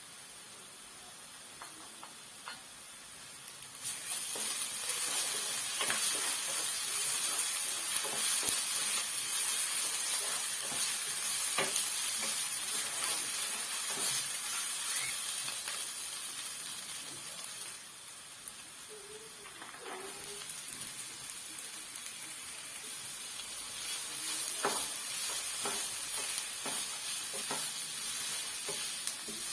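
Samosa filling frying in oil in a pan, sizzling, with a spoon clicking and scraping against the pan as it is stirred. The sizzling gets much louder about four seconds in.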